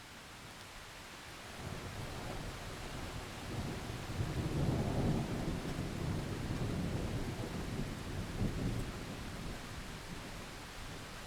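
Heavy rain falling steadily, with a long low roll of thunder that builds about a second and a half in, is loudest around the middle and slowly dies away toward the end.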